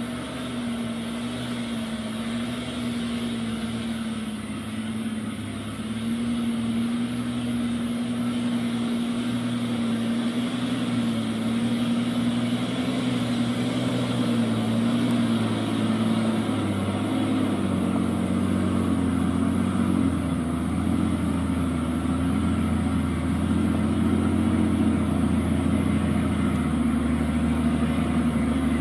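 Heavy truck engine running steadily. It gets louder about six seconds in, and its tone shifts lower and heavier from about seventeen seconds on.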